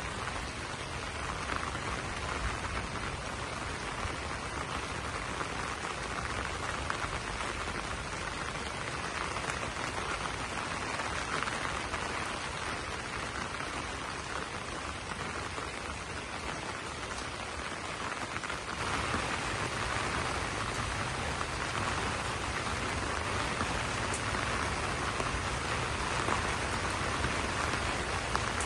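Steady rain falling on broad banana leaves, a dense even patter. About two-thirds of the way through it grows a little louder and heavier.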